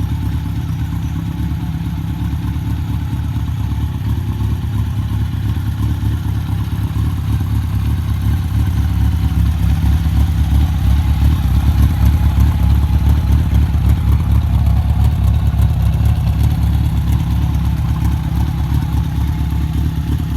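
Honda CB750 Sevenfifty motorcycle's inline-four engine running steadily, a little louder through the middle stretch.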